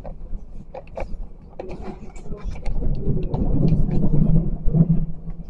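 Passenger train running along the line, heard from inside the carriage: a low rolling rumble of wheels on rails with scattered sharp clicks and rattles. The rumble grows louder about three seconds in.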